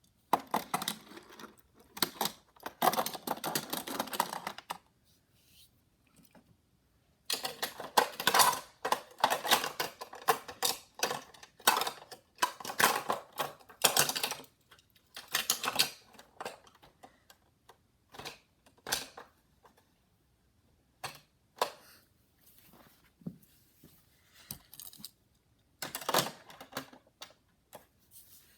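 Small die-cast toy cars and plastic toy parts being handled, with long bursts of rapid clicking and rattling, then scattered single clicks and short clatters in the second half.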